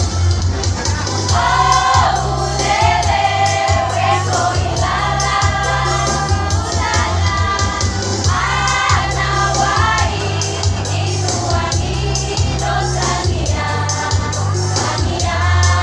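A choir singing a song over an instrumental accompaniment with steady bass notes and a regular beat.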